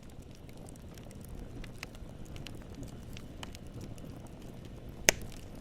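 Wood fire crackling: a steady low rumble of flames with scattered small pops, and one loud, sharp pop about five seconds in as a piece of wood bursts.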